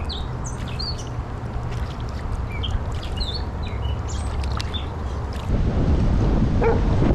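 Birds chirping, many short calls, over a steady low hum. About five and a half seconds in, this cuts off suddenly and gives way to wind buffeting the microphone, louder, with water noise.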